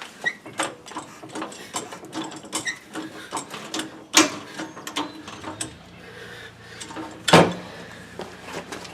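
Hand tools working on a pickup's front wheel: irregular metal clicks and rattling ratchet-like clicks, with a sharp metallic knock about four seconds in and a louder knock about seven seconds in.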